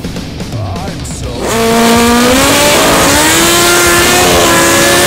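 Drag-racing motorcycle engine run hard at full throttle. It comes in loud about a second and a half in, its pitch climbing with a couple of brief dips.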